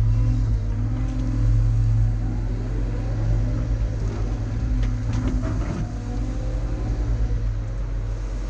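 Caterpillar earthmoving machine's diesel engine running steadily under load, with a rise and fall in pitch and some clatter around the middle.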